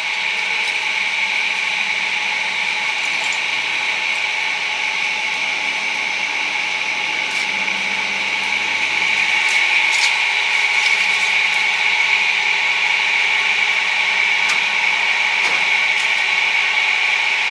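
Steady mechanical whir of a small motor running at a constant pitch, with a few light clicks now and then.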